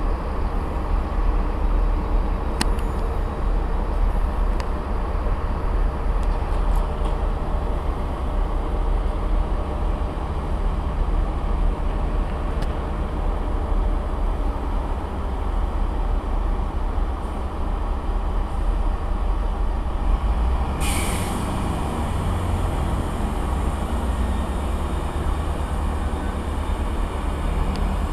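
A train's engine running steadily with a deep rumble, and a short hiss of air about three-quarters of the way through.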